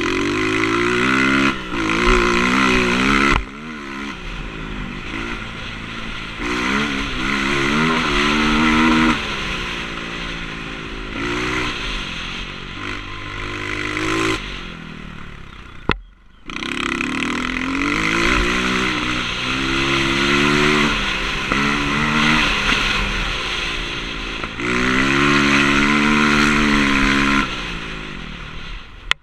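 Motocross bike engine revving hard and easing off over and over as it is ridden, its pitch rising and falling many times. The sound drops away sharply for a moment about sixteen seconds in.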